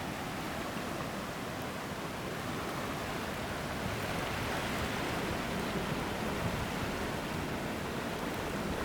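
Steady rushing of monsoon floodwater, growing a little louder about four seconds in.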